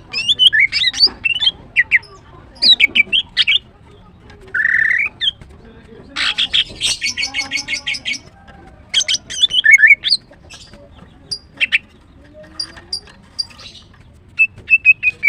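Female greater green leafbird calling: bursts of sharp chirps and squawky notes, a fast rattling run of notes around the middle, and a short quick trill near the end.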